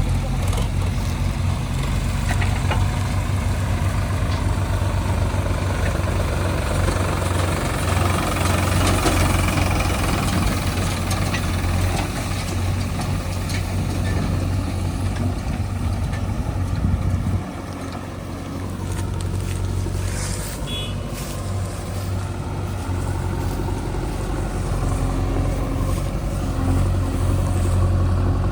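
Diesel engine of a JCB 3DX backhoe loader working, a steady low hum that suddenly eases and quietens about seventeen seconds in, then slowly builds back up.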